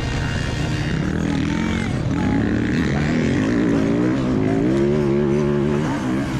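Yamaha YZ450F single-cylinder four-stroke dirt bike engine running, its pitch rising and wavering up and down with the throttle.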